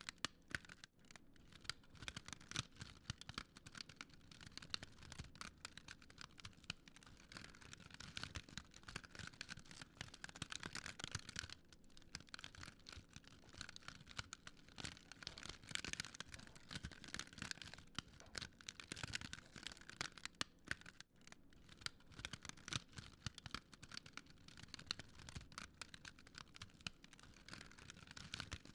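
Wood fire crackling: a dense, irregular run of small snaps and pops over a soft hiss.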